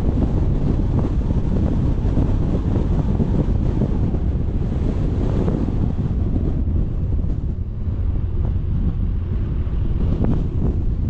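Strong wind buffeting an action camera's microphone: a steady, loud low rumble, easing slightly about seven seconds in.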